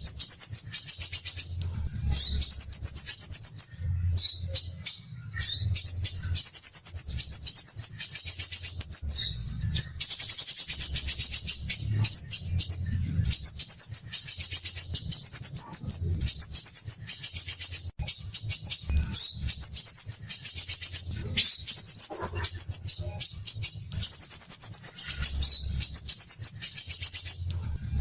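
Crimson sunbird (burung madu sepah raja) singing in dense, rapid, high-pitched chattering trills. The phrases come one after another, each a second or two long, with short breaks between them.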